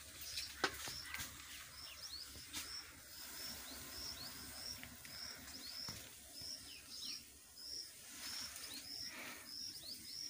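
A bird repeats a short high chirp about twice a second, with fainter falling chirps among it. A single sharp click sounds about half a second in.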